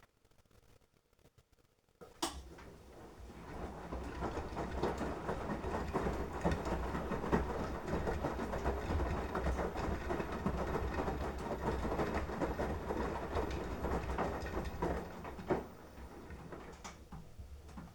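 Beko washing machine drum turning during the wash phase, laundry and water tumbling over a low motor rumble. It starts with a click about two seconds in and stops with a knock near the end, a quieter sound trailing after.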